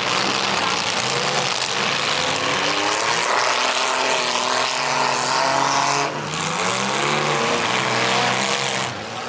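Several demolition derby cars' engines running and revving at once, their pitches rising and falling against each other over a dense wash of noise.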